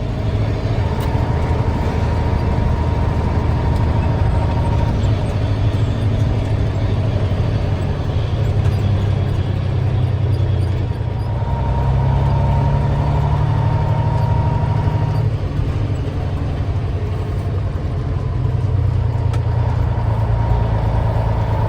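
Engine of a fully loaded grain truck running steadily under way, with a high whine that comes and goes.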